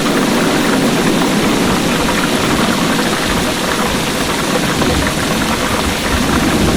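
Heavy rain falling steadily, with a low rumble of distant thunder underneath that swells near the start and again near the end.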